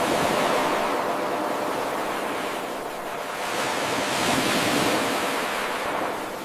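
Ocean waves washing onto the shore: a surge of surf at the start, a lull, then a second swell that dies away near the end.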